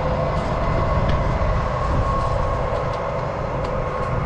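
Heavy truck engine running steadily close by, a low rumble with a steady whine over it.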